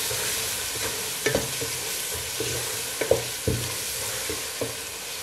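Onion-tomato masala with ground spices sizzling in oil in a non-stick pot as a wooden spatula stirs it, with a few scattered knocks and scrapes of the spatula against the pot, the loudest about three seconds in.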